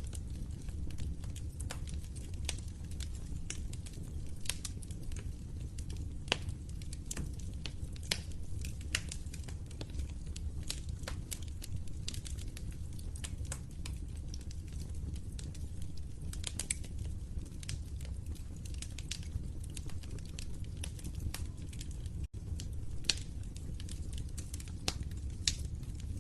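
Wood fire crackling, with frequent irregular pops and snaps over a steady low rumble of the burning fire. The sound cuts out for an instant near the end.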